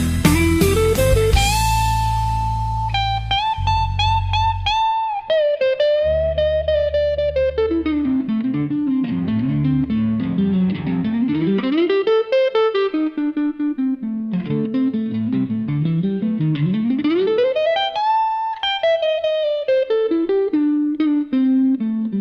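Slow blues music led by an electric guitar playing a single melodic line that glides and bends between notes. A low bass accompaniment drops out about eight seconds in, leaving the guitar line mostly alone.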